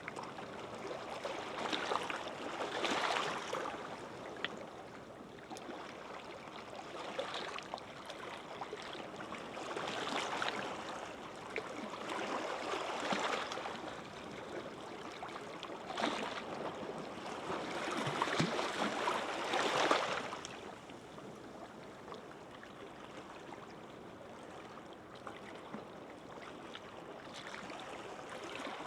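Gentle sea waves washing in on a beach: a soft rushing wash that swells and eases every few seconds, settling quieter in the last third.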